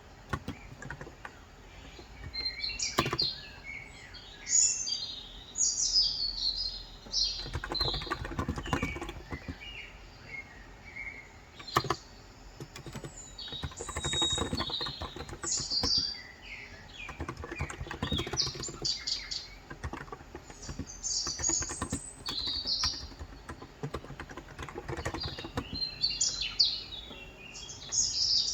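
Small birds chirping and singing repeatedly, with scattered keystrokes from a Cox Endeavor 35 g electrostatic capacitive (non-contact) tenkeyless keyboard.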